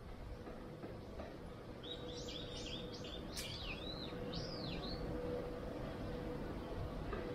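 A bird calling in a quick run of high chirps and swooping whistled notes for about three seconds, starting about two seconds in, over steady background noise with a faint constant hum.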